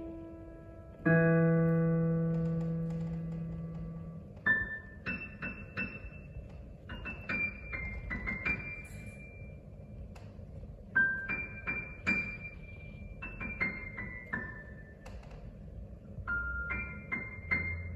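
Solo piano music. A low chord is struck about a second in and rings out, then a quick melody of high single notes follows.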